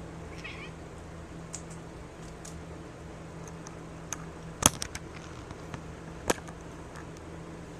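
Steady low hum of room tone, broken by a quick cluster of sharp clicks a little over four and a half seconds in and one more sharp click just past six seconds.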